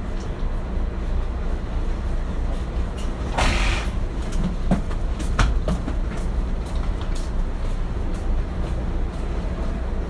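Cabin noise inside a Kintetsu 1420 series electric train: a steady low rumble, with a short hiss about three and a half seconds in and a few sharp clacks just after it.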